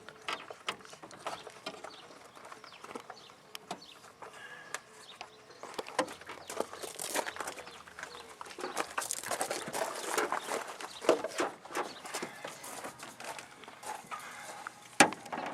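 Irregular clicks, taps and clanks of wrench work on the Cummins diesel's fuel system, with a sharper knock near the end; the engine is not running.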